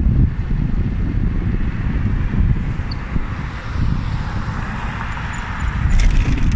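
Wind buffeting the microphone of a moving bicycle, with road and tyre hiss that swells in the second half and a few sharp clicks near the end.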